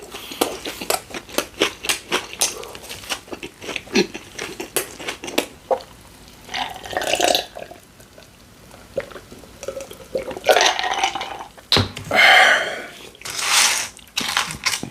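Close-miked eating of a sub sandwich: wet chewing with many quick mouth smacks and clicks, then a few longer, louder throaty mouth sounds in the second half.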